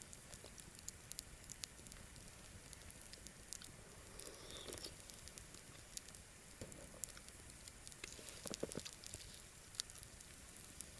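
Faint crackling of a wood campfire, with scattered sharp pops and ticks, and a couple of soft rustles about four and eight seconds in.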